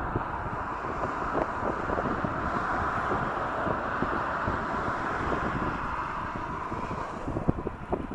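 Jet aircraft engine noise, a steady rushing roar that swells through the middle and eases near the end as the plane passes, under heavy gusts of storm wind buffeting the microphone.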